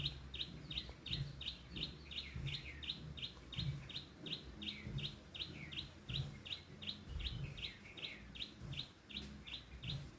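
Broiler chicks peeping in a brooding shed: a steady run of short, falling chirps, about three or four a second.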